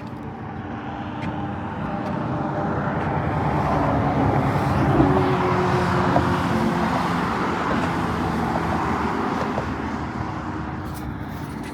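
Motorboat engine passing by, growing steadily louder to a peak about halfway through, then fading away.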